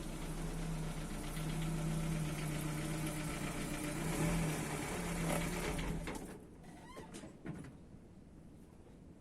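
A car engine running steadily, cutting off about six seconds in, followed by a few faint knocks.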